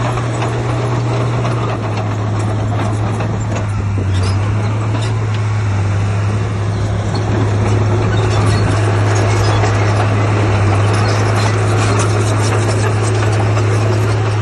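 Heavy diesel engine of earth-moving machinery running steadily with a constant low drone, with scattered clanks and rattles over it.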